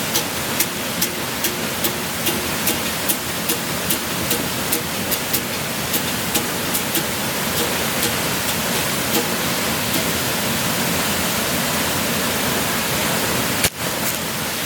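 Berimbau played with its stick on the steel string, struck evenly about two or three times a second over the steady rush of a waterfall; the strikes fade out just over halfway through, leaving only the water.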